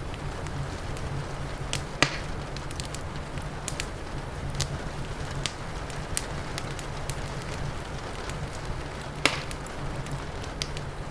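Wood fire crackling, with frequent small snaps and two loud pops, about two seconds in and near the end, over a steady low rumble.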